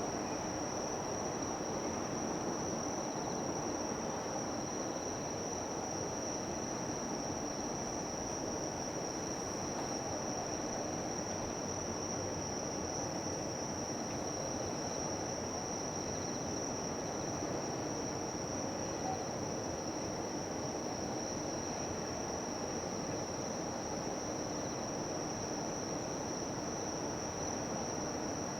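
Steady, unbroken high-pitched insect chorus over a low, even background rumble.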